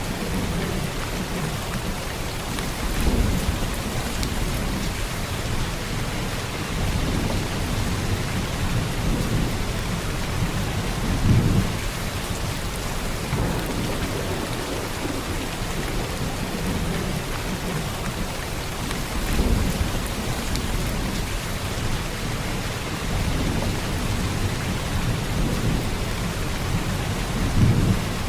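Heavy rain falling steadily, with a low rumble of thunder swelling up about every eight seconds.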